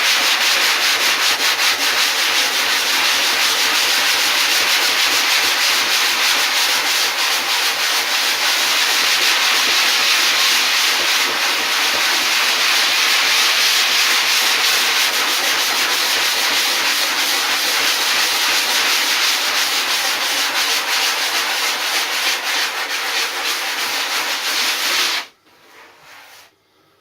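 Continuous sanding of a surfboard's repaired foam, a steady loud scratchy rasp that stops abruptly about 25 seconds in.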